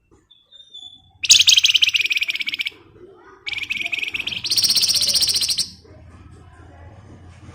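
Wergan Jawa (Javan fulvetta, kept as a 'flamboyan') singing. A short thin whistle comes first, then two long, very fast, dense trills, the second one rising higher and louder in its last part.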